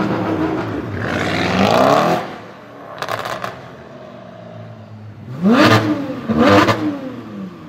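Porsche 991 GT3's flat-six through an iPE Innotech titanium exhaust, revved up and let fall back to idle over the first two seconds, then given two sharp throttle blips about a second apart near the end.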